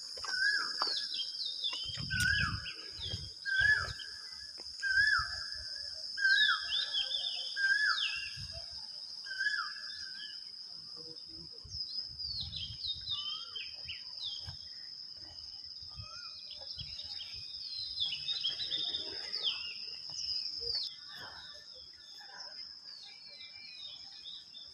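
Dawn chorus of birds: one bird repeats a short whistled note that rises and falls, about every second and a half for the first ten seconds, among many quick high downward chirps, over a steady high-pitched insect drone. Scattered low rumbles come and go.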